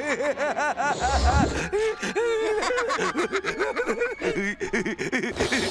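Cartoon voices laughing: a rapid run of short, bouncing laughs and snickers, with a low rumble about a second in.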